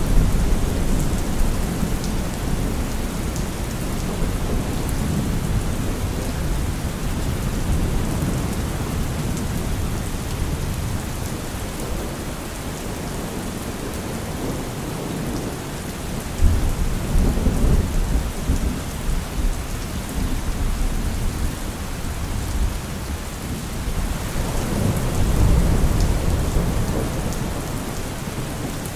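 Heavy rain falling steadily, with rolls of thunder rumbling low at the start, again about halfway through and once more near the end.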